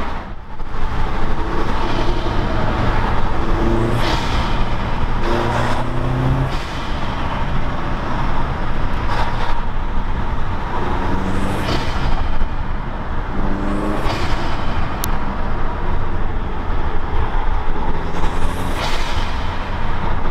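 Alfa Romeo 2.0-litre turbocharged four-cylinder with a home-built open intake (BMC race filter on a 90 mm pipe), heard from inside the cabin while accelerating. The engine note rises through each gear and drops back at the upshifts, with several short hissing rushes between the pulls.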